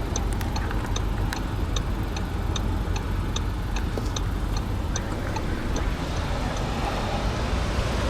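The 2015 Volkswagen Golf's 1.4 TSI four-cylinder turbo petrol engine idling as a steady low hum, heard from the car's cabin. Light, regular ticking at about three a second runs over it and fades out about six seconds in.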